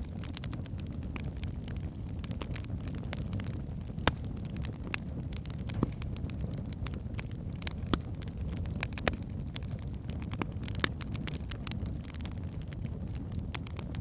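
Wood fire burning in a fireplace: a steady low rumble with irregular crackles and a few sharper pops from the burning logs.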